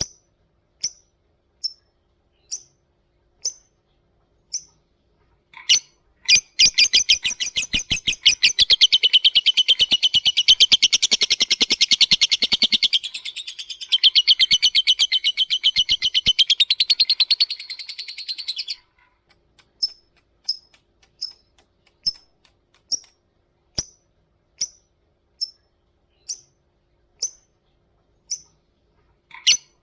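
Lovebird giving single sharp chirps about once a second, then about six seconds in breaking into a long, rapid chattering trill, the 'ngekek' of Indonesian bird-keepers, that lasts some twelve seconds before it returns to single chirps.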